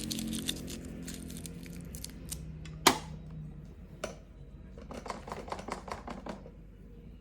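Electric nail drill hum that dies away about halfway through, with a single sharp click in the middle and a quick run of small ticks and taps from the tools on the nail in the second half.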